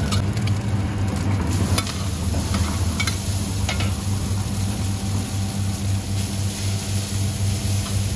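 Eggs and noodles sizzling on a large flat griddle while metal spatulas scrape and tap against the pan a few times, over a steady low hum.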